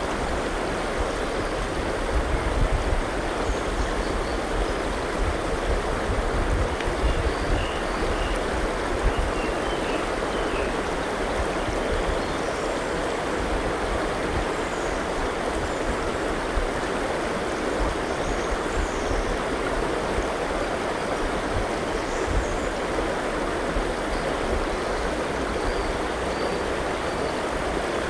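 A forest river flowing steadily in an even rush of water, with faint, scattered bird chirps above it.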